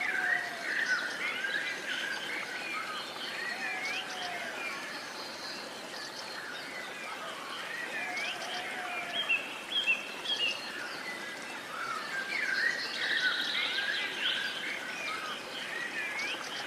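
Several wild birds chirping and singing in a dawn-chorus style mix of short rising and falling calls, with a rapid high trill around the middle of the second half, over a steady outdoor background hiss.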